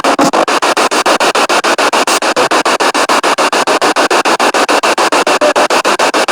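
Spirit box, a radio that sweeps rapidly through the stations, giving loud hissing static chopped into even pulses about ten times a second.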